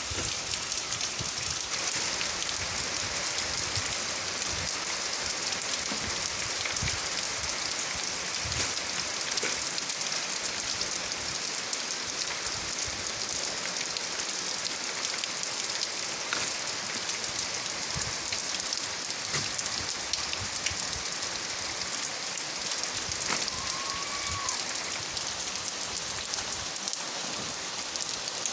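Steady rain falling, an even hiss with scattered patters of drops.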